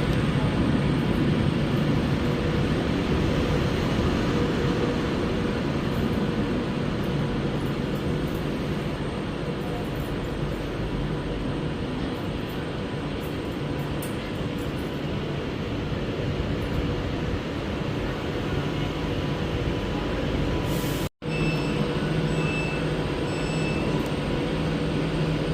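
Train standing or moving slowly at a station platform, with a steady running noise and low hum. The sound cuts out abruptly for a moment near the end, followed by a few faint short beeps.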